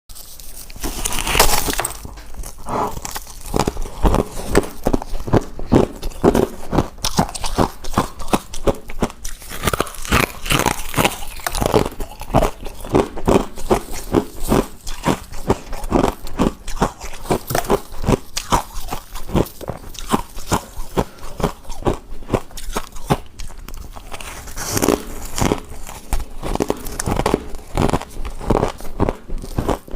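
A person biting and chewing hard deep-freezer ice: a steady run of crisp crunches, several a second, with occasional louder bites.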